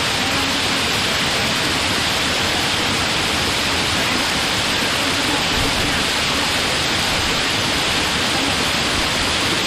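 Loud, steady rush of water pouring down a waterfall cascade.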